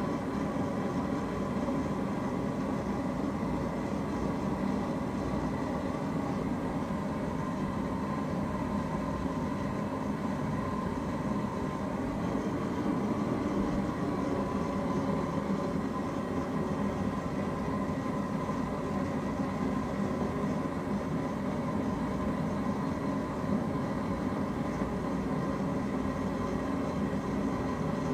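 A forge running: a steady rushing noise with a faint steady hum, and no hammer blows.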